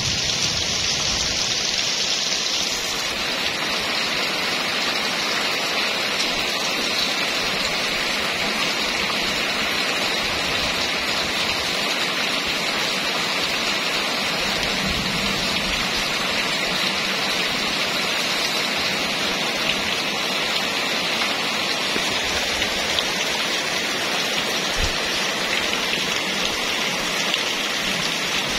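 Steady rain falling, a constant hiss of drops hitting surfaces; the high part of the hiss softens a little about three seconds in.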